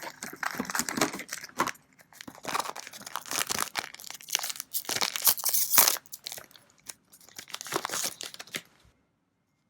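Foil wrapper of a trading-card booster pack being torn open and crinkled by hand. Dense crackling for about six seconds, then sparser rustles.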